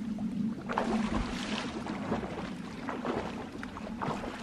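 River water splashing and sloshing, with irregular small knocks, over a steady low hum.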